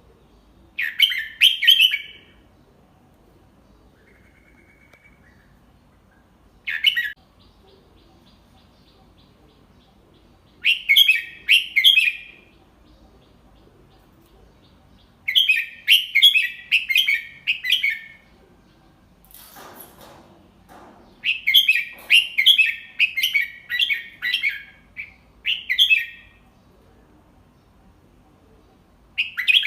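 Red-whiskered bulbul singing: short phrases of quick, bright chirping notes, with pauses of a few seconds between them and a longer run of phrases in the second half. A brief soft rustle sounds about two-thirds of the way in.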